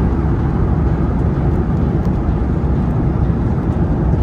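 Airliner cabin noise in flight: a steady, loud low rumble of the engines and rushing air, unchanging throughout.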